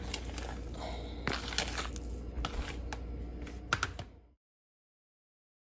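Soft scrapes, squishes and light clicks of thick peanut butter cookie dough being worked in a bowl. The sound cuts off abruptly to silence a little past four seconds in.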